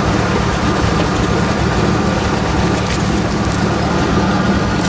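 Off-road 4x4 vehicle's engine idling steadily, with a few faint clicks over it.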